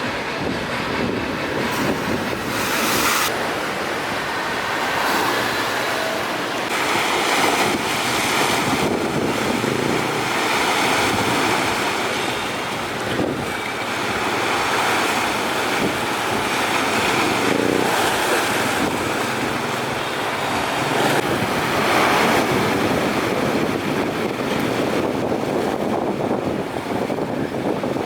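Strong wind blowing across the microphone over rough sea waves, a continuous rushing noise that swells and eases every few seconds.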